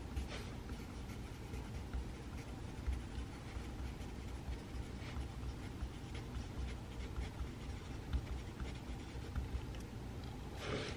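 Pencil writing on paper: light, irregular scratches and ticks over a steady low room hum, with a louder brief rustle near the end.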